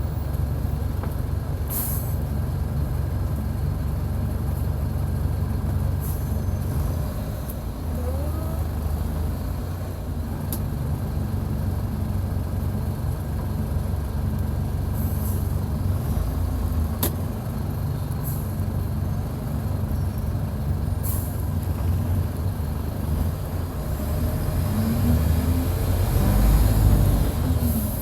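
Mercedes-Benz OF-1722 bus's diesel engine heard close up, running hard under way, with several short hisses from the air brakes. Near the end the engine note climbs to a peak, then falls away.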